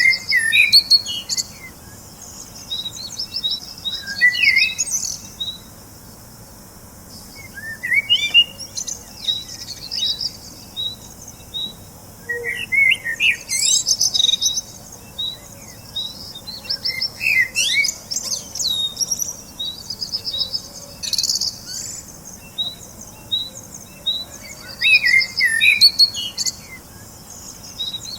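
Songbirds chirping and singing in short bursts of quick, high notes every few seconds, over a steady series of short, evenly spaced high chirps.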